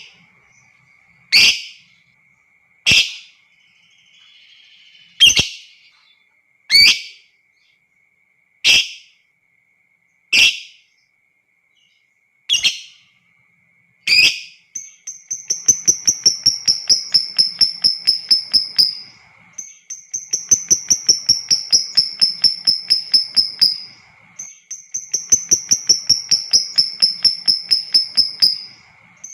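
Lovebird calling: first a string of single sharp, shrill calls about every one and a half to two seconds, then, about halfway in, long rapid chattering trills ('ngekek'), each lasting four to five seconds with a high, slightly falling tone, three in a row with short pauses between.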